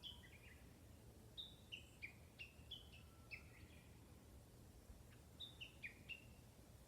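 A wild songbird singing faint phrases of short, quick notes, each phrase a run of stepped chirps: one ends just at the start, another comes about a second and a half in, and a shorter one near the end.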